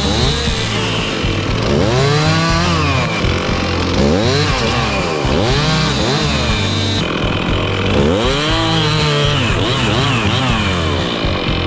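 Gas chainsaw revving up and dropping back again and again, roughly once a second, as it works through wood.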